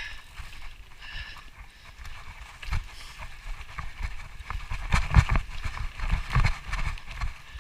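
Footsteps of a hiker climbing a trail, with uneven scuffs and dull thumps as the feet land, and gear and the body-worn camera rustling.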